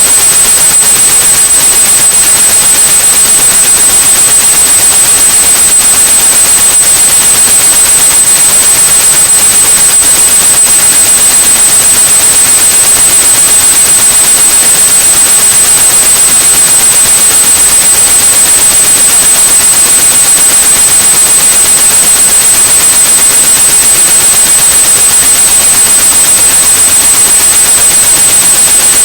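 A steady, high-pitched 8100 Hz pure tone held over continuous white noise: a synthesized tinnitus-masking sound.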